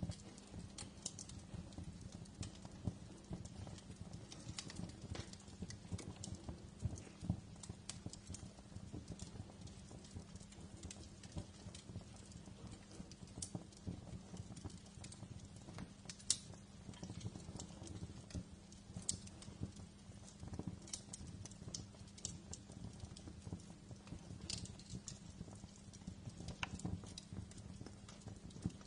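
Wood fire crackling in a fireplace: irregular sharp pops and snaps over a low, steady hum.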